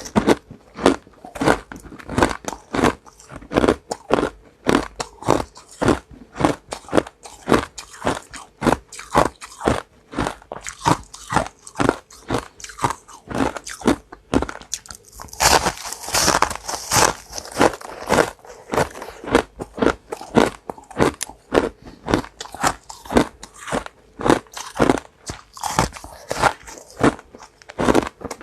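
Ice being bitten and chewed, with sharp crunches about two to three a second. About halfway through comes a longer, harsher crackling crunch.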